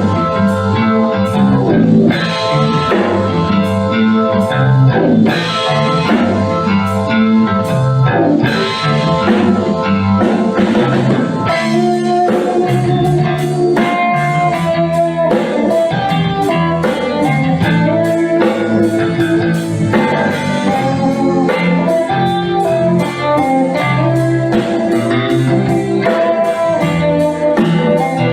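A band playing a rock-blues instrumental, with electric guitar over bass and drum kit. About twelve seconds in, the drums change to a busier, even cymbal beat.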